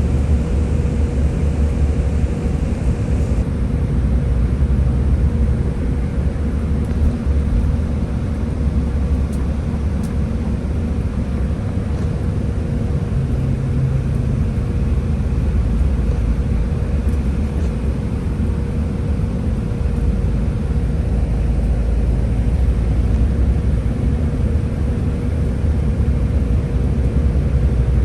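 Scania Higer A30 city bus running, a steady low engine and road rumble with a faint steady whine above it.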